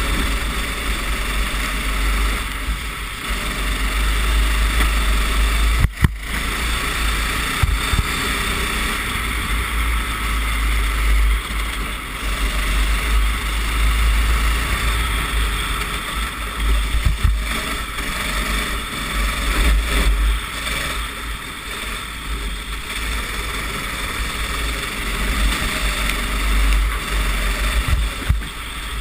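Racing kart engine running under race load, heard from an onboard camera, with heavy wind rumble on the microphone and a sharp knock about six seconds in.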